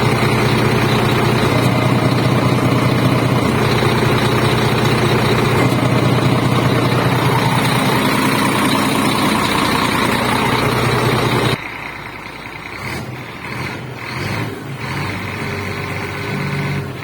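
Scania R440's six-cylinder diesel running steadily and loud through the open straight-through exhaust. About two-thirds of the way in, the sound drops suddenly to a quieter, muffled note as the remote-controlled valve switches the exhaust over to the muffler.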